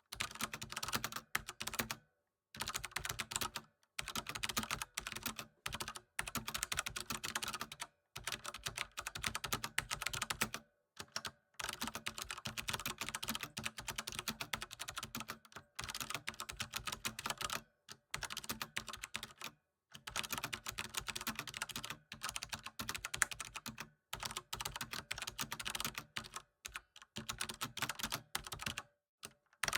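Computer keyboard typing: rapid, continuous key clicks in runs of a few seconds, broken by brief pauses.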